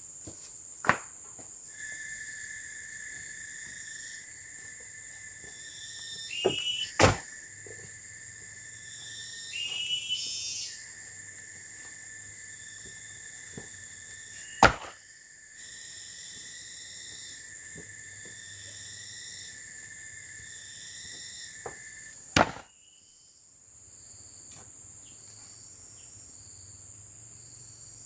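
Steady high chirring of forest insects, joined by a second, lower insect drone that cuts off suddenly about 22 seconds in. Four sharp knocks, several seconds apart, stand out over it.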